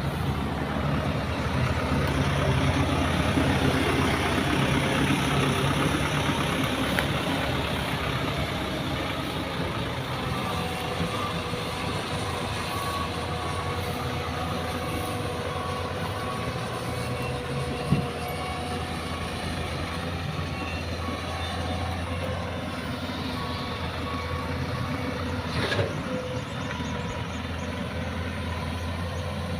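Heavy diesel engine of earth-moving equipment running steadily, a little louder at first, with a sharp knock about halfway through and another near the end.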